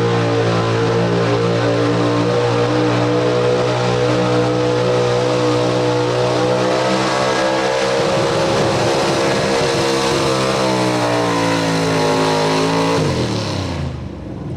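Pro Street 4x4 pulling truck's engine running flat out at high, steady revs under load, its pitch sagging slightly in the second half, then falling sharply about thirteen seconds in as the throttle comes off.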